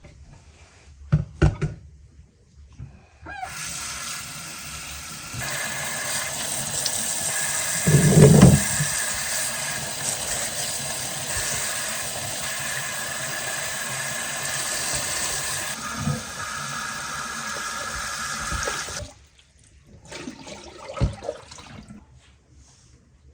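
Water running steadily for about fifteen seconds, then shut off suddenly, with a dull thump partway through and a few knocks before and after.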